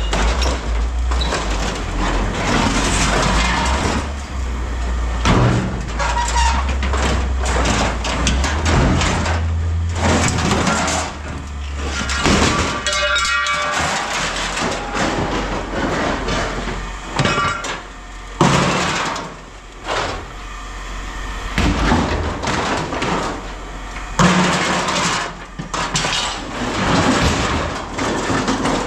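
Pieces of scrap metal clanking and banging as they are handled and tossed while being sorted, one piece ringing briefly about halfway through. A steady low hum runs underneath and stops about halfway.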